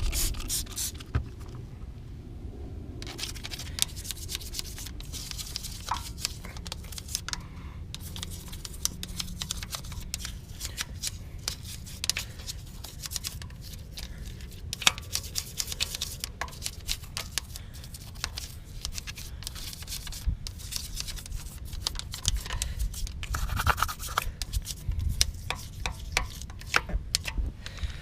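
A few quick squirts of a spray bottle of wheel cleaner, then after a short pause a bristle brush scrubbing a car wheel rim in rapid, scratchy strokes. The scrubbing is a second pass on a rim that has not been cleaned in a while.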